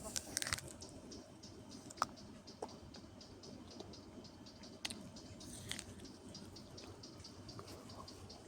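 Faint rustling and a few sharp clicks over a low, steady background, with a light ticking high up throughout.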